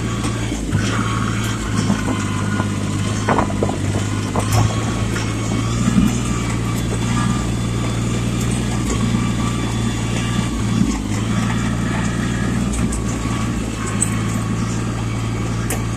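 Yanmar compact tractor's diesel engine running steadily as it drives, with a few brief knocks and clanks along the way.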